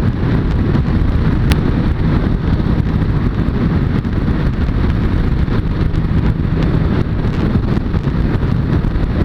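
Suzuki Bandit 600S inline-four engine running steadily while riding, under heavy wind noise on the rider's microphone.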